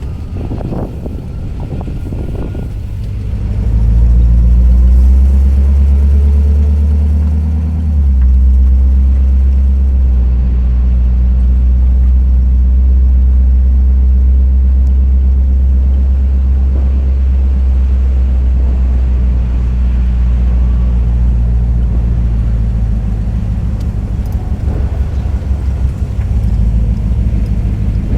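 Hot-rodded 1932 Ford Phaeton's '75 Chevy truck engine running with a steady low drone. The drone comes up loud a few seconds in, and the note changes about eight seconds in.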